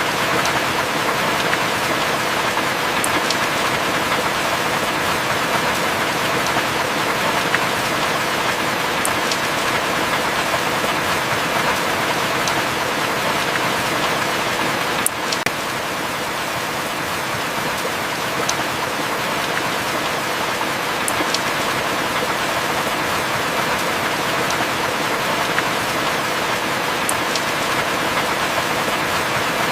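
Heavy rain falling steadily, with an occasional sharp drip standing out every few seconds.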